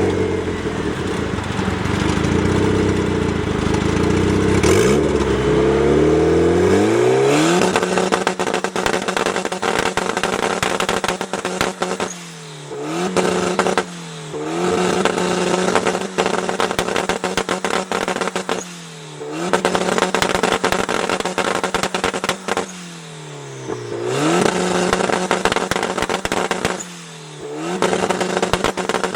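Tuned car engine revving up, then held at a steady high pitch on a two-step launch limiter with rapid exhaust crackling and popping; about five times the revs drop briefly and climb straight back. The pops go with flames shooting from the exhaust.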